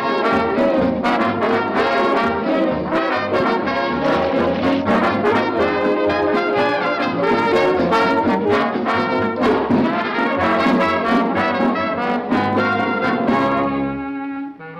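Lively orchestral cartoon music with brass to the fore, trombones and trumpets playing a busy run of quick notes. It thins out and gets quieter about a second before the end.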